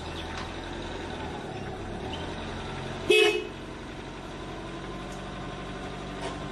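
A single short horn honk about three seconds in, over a steady low background rumble, with a few faint high chirps.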